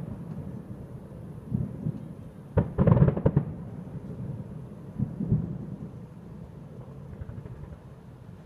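Distant aerial fireworks bursting: a few booms about two seconds in, a loud cluster of rapid bangs around three seconds, and more booms about five seconds in, each followed by a low rumbling echo that dies away.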